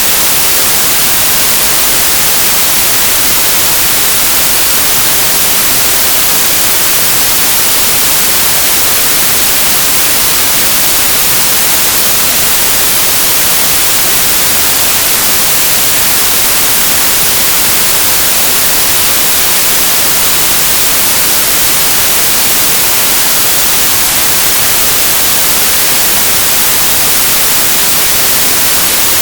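Synthesized white noise: a steady, even hiss, bright and strongest in the high frequencies, with no changes.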